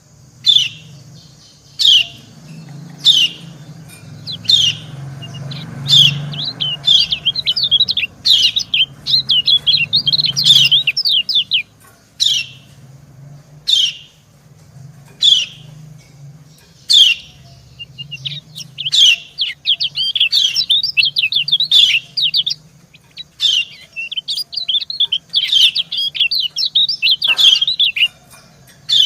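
Lemon-bellied white-eyes (kecial kuning): a female's sharp, falling 'ciak' calls, repeated about every second and a half, answered by a male's fast twittering song in two long runs, one early and one in the second half.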